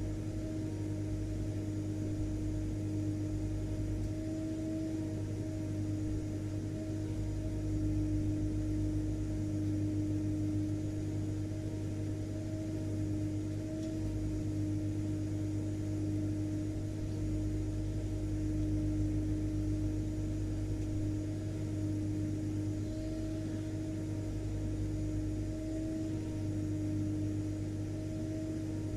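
Vacuum cleaner running steadily: an even motor hum with a constant mid-pitched whine over a low drone, unchanging throughout.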